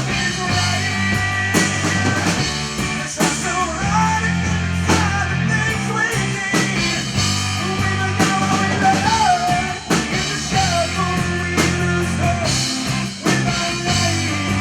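Rock music with drums, bass and guitar, and a wavering melody line above them.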